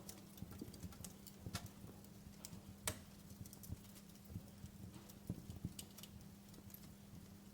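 Wood fire crackling in a fireplace: irregular small pops and snaps, one louder pop a little before three seconds in, over a steady low hum.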